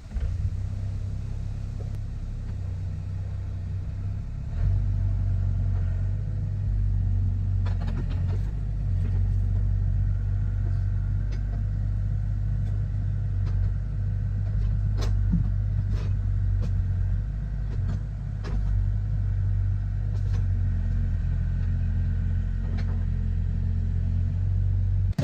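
An engine running steadily with a low rumble, getting louder about four and a half seconds in, with a few sharp cracks and knocks over it.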